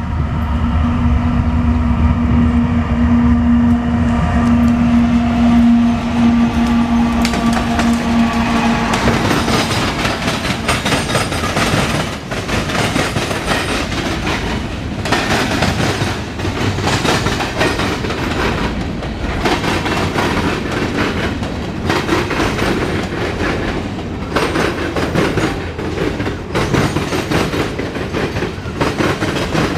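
A CSX freight train passing close by: the locomotives go by first with a steady pitched drone for about nine seconds, then the freight cars roll past with a continuous rumble and the clatter of wheels over rail joints.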